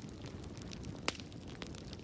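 Wood fire burning in a fireplace: a steady low rumble of flames with scattered small crackles and one sharper pop about a second in.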